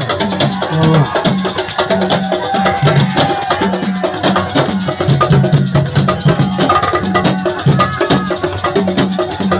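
Assiko band music: dense, fast drumming with a shaker rattle over a repeating low line, playing steadily.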